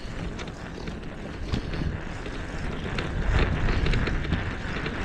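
Wind buffeting the microphone of a moving bicycle, with a low rumble and irregular knocks and rattles from riding over rough ground, growing louder past the middle.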